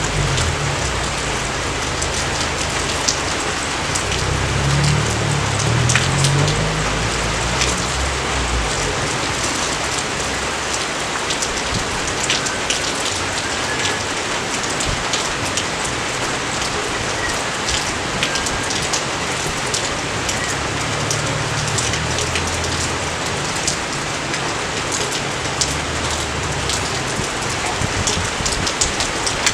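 Steady rain falling: a dense, even hiss with frequent sharp drip ticks, and a low rumble that comes and goes in the first few seconds and again near the end.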